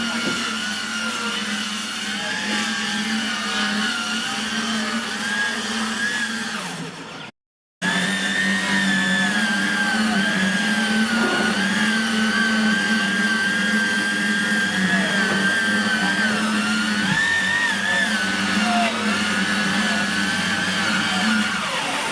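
Handheld electric power tool running continuously, its motor whine wavering in pitch as the load on it changes. It breaks off into a moment of silence about seven seconds in, then resumes.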